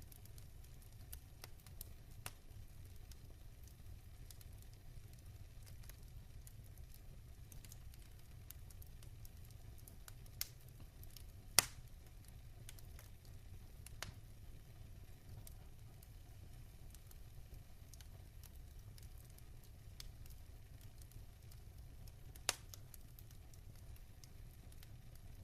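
Wood fire burning in a fireplace: a low steady rumble of flames with scattered crackles and sharp pops. The loudest pop comes a little under halfway through and another near the end.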